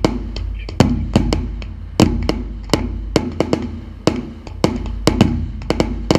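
Fireworks display: a rapid, irregular series of sharp bangs from bursting shells, several a second, over loud music.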